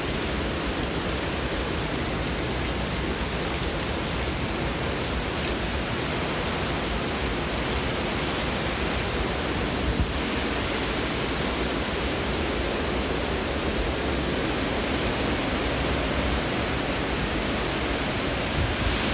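Hurricane wind and heavy rain: a steady, even rush of noise with one brief knock about halfway through.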